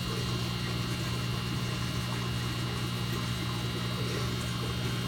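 Steady electric hum of an aquarium pump, with a faint wash of moving water.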